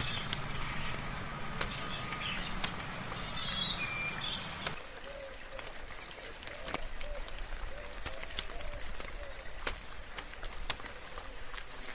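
Dawn forest birdsong in light rain: several birds chirping, with scattered sharp drip-like ticks. A low hum under the first few seconds stops abruptly. After that a series of soft, low repeated calls and a few faint high whistles carry on.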